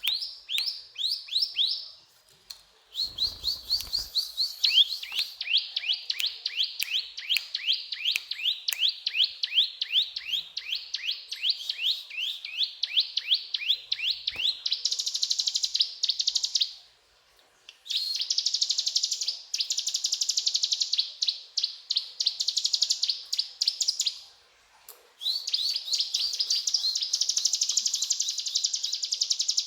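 Ciblek gunung (a prinia) singing: rapid runs of sharp down-slurred chips, then long, fast buzzing trills. Its song stops for short pauses a few times. A brief low bump about three seconds in.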